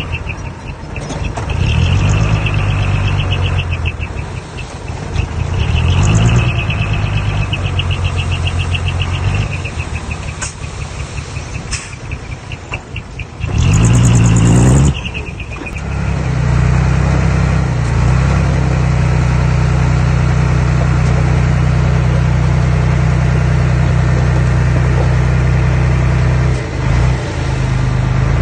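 Earthmoving machine's engine working, its pitch rising and falling through the first half, with a brief loud rev about halfway through. After that it settles into a steady run.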